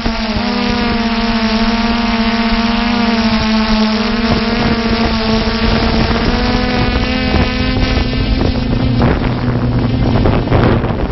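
Multirotor camera drone's motors and propellers buzzing steadily as it flies, with some wind on the microphone. About nine seconds in the buzz shifts to a lower pitch.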